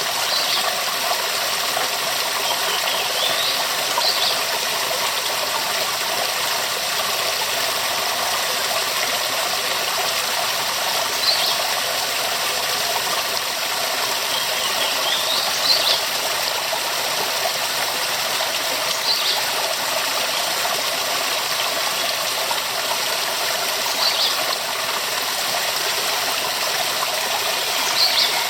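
Waterfall rushing with a steady, even roar of falling water, with short high chirps every few seconds.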